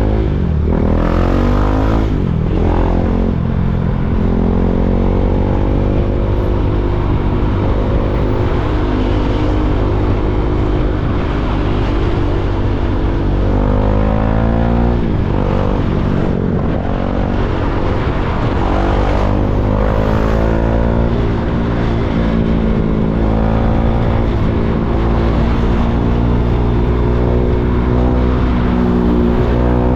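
KTM Duke 390's single-cylinder four-stroke engine running as the motorcycle rides through slow traffic, its pitch climbing slowly through the gears and dropping back several times.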